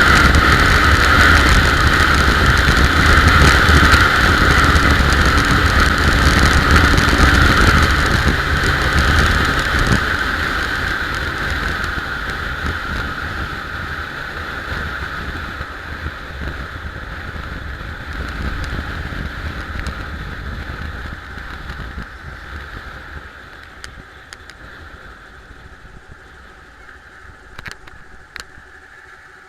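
Ural motorcycle's flat-twin engine running. The sound is loud for the first several seconds, then fades steadily over about twenty seconds until it is faint. A few light clicks come near the end.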